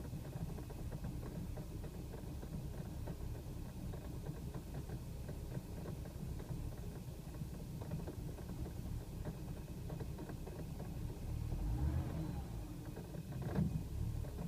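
BMW E90 3 Series engine idling roughly, an uneven, juddering low rumble. The owner puts it down to tiny misfires at idle that have persisted after a fuel-system cleaner. The rumble swells about twelve seconds in, and a brief sharp knock comes shortly before the end.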